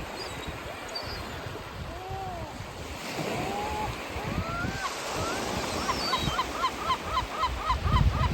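Gulls calling over surf: a couple of drawn-out arching calls, then from about six seconds in a fast run of short repeated calls, several a second. Waves wash underneath, with wind rumbling on the microphone.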